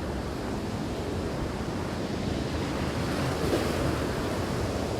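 Storm-surge waves surging and breaking on the shore, a steady rushing wash that swells a little after the middle, with wind buffeting the microphone.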